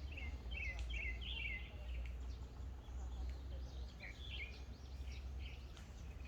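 Birds calling with clusters of short, high chirps over a steady low rumble.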